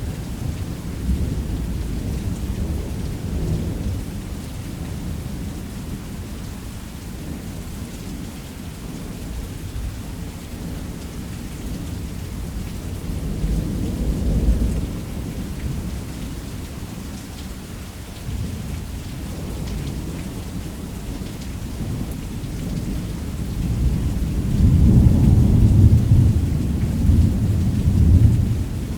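Heavy rain falling steadily with rolling thunder: a rumble swells about halfway through, and a louder, longer rumble comes near the end.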